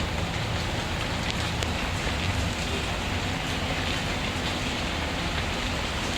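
Steady rainfall, with a wood fire crackling faintly beneath it in scattered small ticks.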